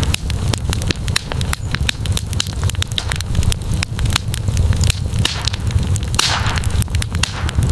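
Wood campfire crackling, with many sharp pops over a steady low rumble and a brief hiss about six seconds in.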